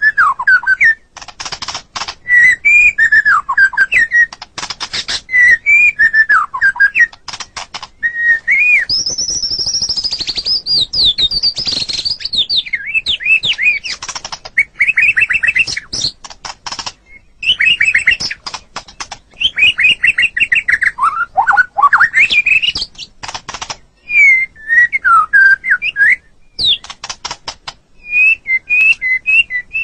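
White-rumped shama (murai batu) singing a varied, continuous song: loud whistled phrases sliding up and down, interleaved with rapid dry chattering notes, with a long high trill about ten seconds in.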